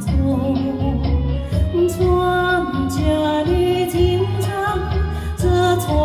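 Live band music: a pitched melody line with slides and wavering notes over a repeating bass beat.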